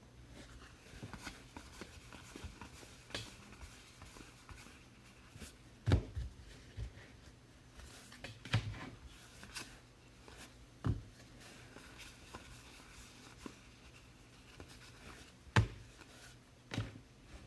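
Trading cards being handled on a table: faint rustling with a few short sharp taps, the loudest about six seconds in and again near the end.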